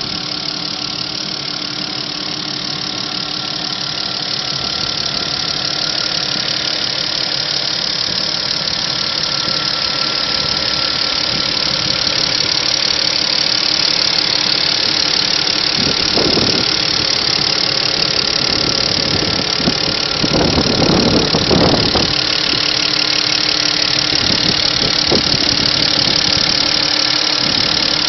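Audi A6 C6's 2.4-litre V6 (BDW) petrol engine running steadily, with a short louder, rougher patch about twenty seconds in.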